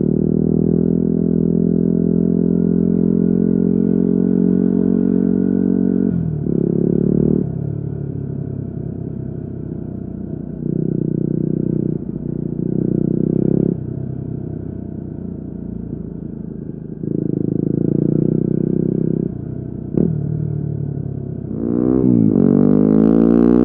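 Yamaha WR250R's single-cylinder four-stroke engine through an FMF Q4 exhaust, running under way. A long pull with revs slowly climbing gives way to stretches of steady throttle alternating with the throttle rolled off. Near the end the revs rise and fall quickly several times.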